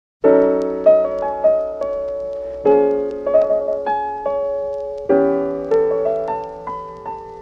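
Piano music: a chord struck about every two and a half seconds, three times, with a few melody notes played over each as it dies away.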